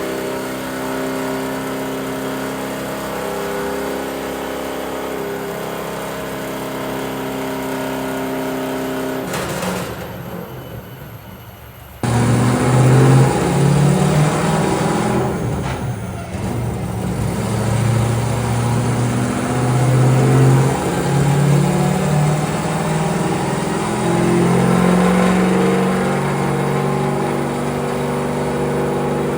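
Drift car's engine running at fairly steady revs, fading away around ten seconds in. Then it cuts suddenly to louder revving that rises and falls.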